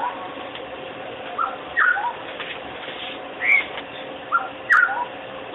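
Black-hooded oriole calling: short, clear, fluty whistled notes, some rising and some falling, given in phrases of one to three notes a few times over.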